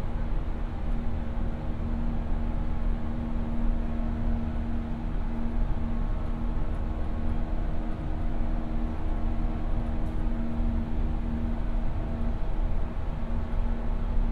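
Inside a JR West 117 series electric train cruising at speed: a steady rumble of wheels on the rails with a constant low hum, and no clicks or pauses.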